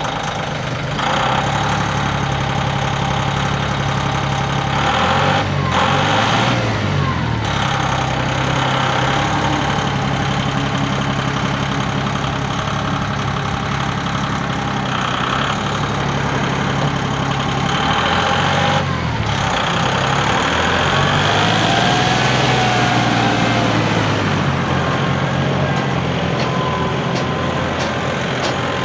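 Massey Ferguson 1740M's three-cylinder turbo Shibaura diesel engine running, its speed rising and falling a few times, around five to seven seconds in and again past the middle.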